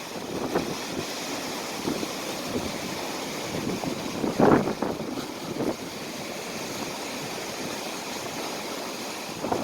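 Outdoor ambience: a steady rushing noise with a few brief louder knocks or thuds, the loudest about four and a half seconds in.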